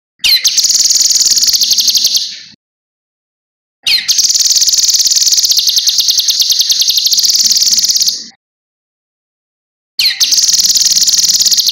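Cucak kinoi (a leafbird) singing in three long, fast, high trills, each opening with a quick rising note, with clean silent gaps between them.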